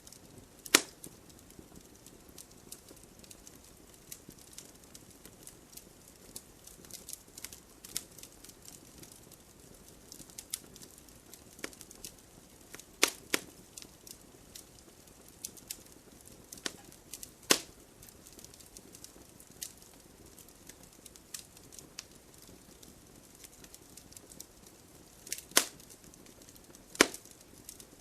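Wood fire in a fireplace crackling: scattered small clicks over a faint hiss, with a handful of sharper, louder pops from the burning logs, about a second in, twice around the middle and twice near the end.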